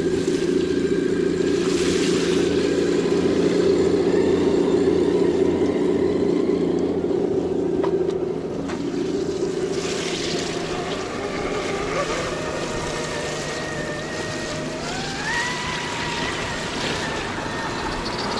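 RC crawler truck's electric motor and gears whining steadily, loudest for the first eight seconds. Later the whine rises in pitch as the motor speeds up.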